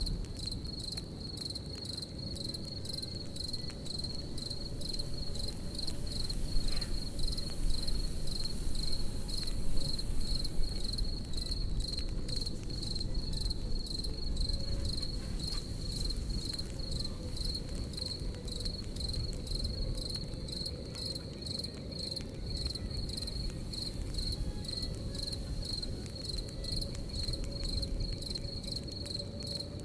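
Crickets chirping in an even, unbroken rhythm, a high chirp about one and a half times a second, over the low rush of a campfire with a few louder pops and crackles.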